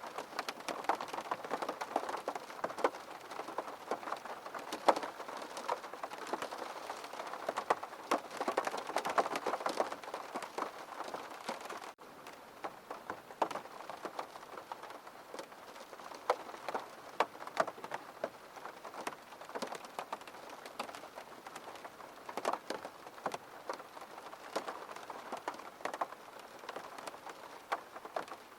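Rain falling against a window, a dense patter of individual drops tapping on the glass over a steady hiss. About twelve seconds in it abruptly becomes quieter and sparser, then carries on.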